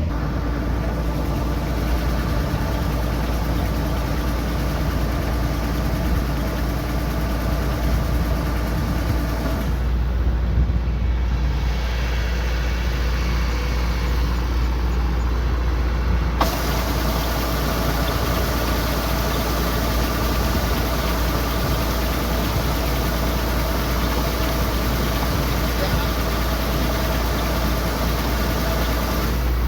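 Kubota combine harvester's diesel engine running steadily under load, with a deep low rumble. The sound changes abruptly about sixteen seconds in.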